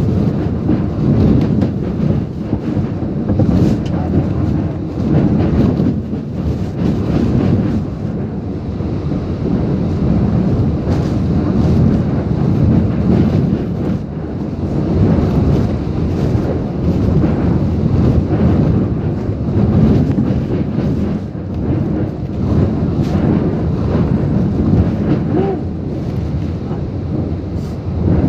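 Typhoon wind and rain battering a truck, with wind blowing across the microphone. The loud, low rush swells and eases in gusts every few seconds.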